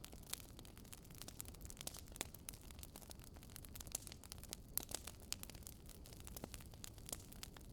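Wood fire burning in a fireplace: irregular crackles and sharp snaps over a soft, steady low noise.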